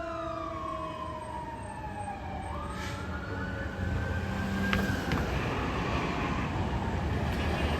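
Fire engine siren winding down slowly in pitch, then rising again about two and a half seconds in and holding at a high pitch, over a steady low rumble.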